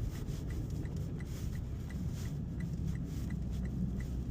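Car's turn-signal indicator ticking evenly, about three clicks a second, over the steady low rumble of the engine and tyres heard inside the cabin.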